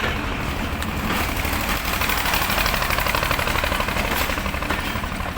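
Ravi Express train hauled by a ZCU-20 diesel locomotive running: a steady low engine rumble with a fast, even rattle that grows louder through the middle and eases near the end.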